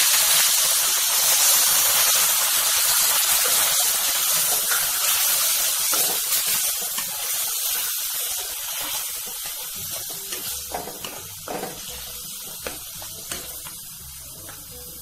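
Sauces and vinegar sizzling in hot oil in a metal kadhai, a loud hiss that dies down steadily. A spatula stirs the mixture, with a few light scrapes and taps against the pan in the second half.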